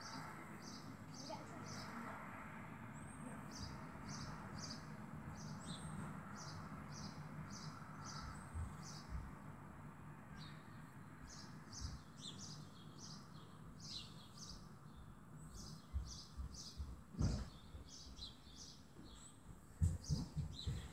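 A small bird chirping repeatedly, short high notes coming in quick runs, over a faint low background hum; a few low thumps near the end.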